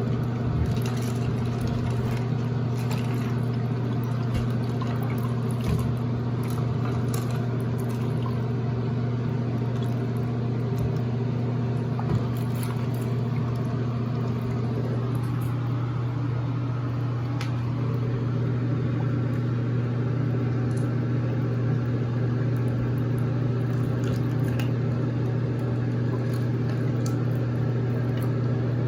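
A steady low machine hum, with light water sounds and a few small clicks over it.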